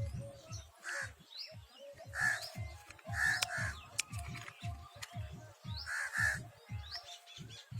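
Crows cawing about six times, some caws in quick pairs, over background music with a steady low beat.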